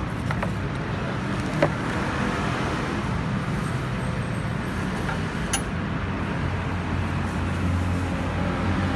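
Kymco G3 scooter engine running steadily at idle, with its low hum growing a little stronger near the end, and two short sharp clicks.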